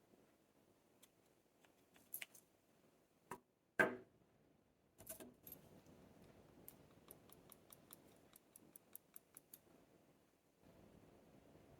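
Close-up handling sounds from putting together a succulent planting: scattered light clicks and a louder knock, a short rustle, then a run of about ten quick, sharp ticks at roughly four a second.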